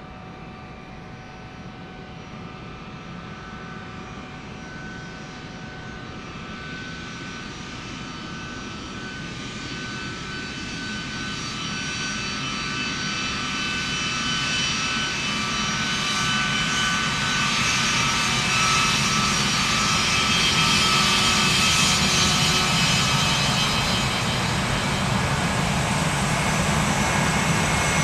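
Boeing C-32 (757-200) jet with Pratt & Whitney PW2000 turbofans, growing steadily louder as it comes closer, with high whining tones over the engine rush.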